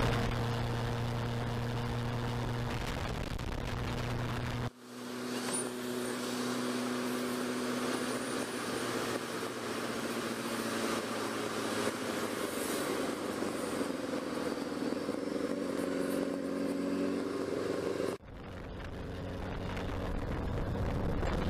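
1989 Kawasaki ZXR750 H1's inline-four engine running steadily while riding, under a haze of wind and road noise. The sound cuts out abruptly twice, about five seconds in and near the end, and swells back each time.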